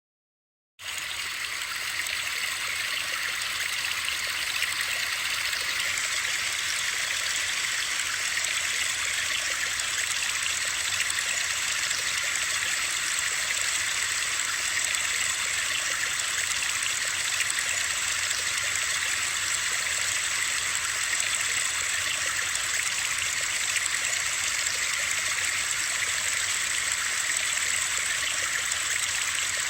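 Steady white-noise sleep sound, an even high hiss that starts abruptly just under a second in after silence.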